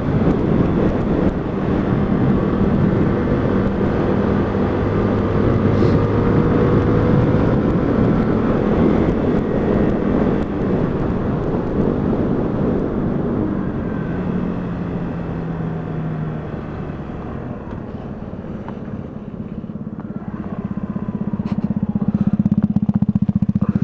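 125cc motorcycle riding along with engine and wind rush; it eases off past the middle, then a steady engine note holds near the end.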